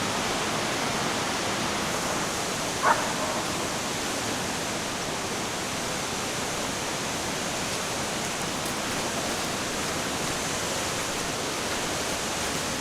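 Steady rush of a waterfall's falling water. About three seconds in, one brief short sound cuts above it.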